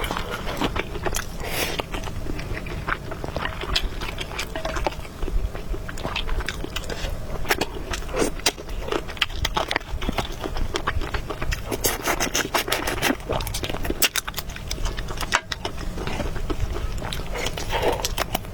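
A person eating close to the microphone: chewing with many quick clicks and smacks throughout, which grow denser about twelve seconds in.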